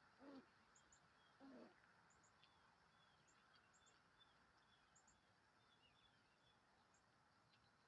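Faint small-bird chirping: many short, high chirps and little down-curving notes repeating throughout. Two brief lower sounds stand out in the first two seconds.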